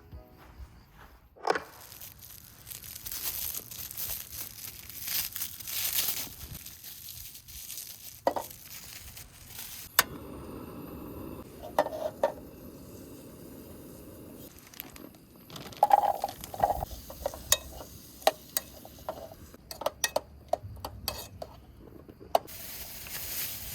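Camp cooking sounds: cookware and utensils clinking and knocking, with a steady hiss for a few seconds in the middle.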